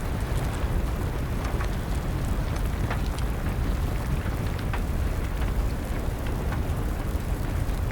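Wood fire crackling, with scattered sharp pops over a steady hiss of rain.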